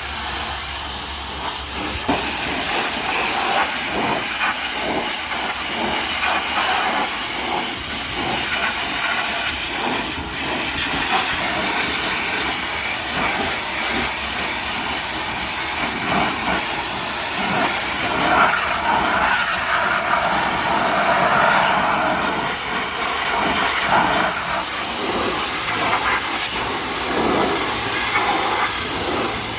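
High-pressure water spray from a pressure washer hitting a truck, a steady hiss that swells and eases as the jet moves, with short louder spurts.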